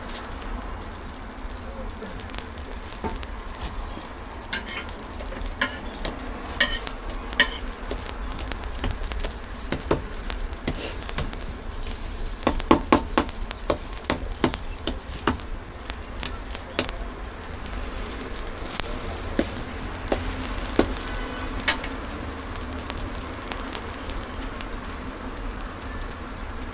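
Steady sizzle of shaobing flatbreads baking on a griddle, with scattered clicks and knocks of cooking utensils and a quick run of knocks about halfway through.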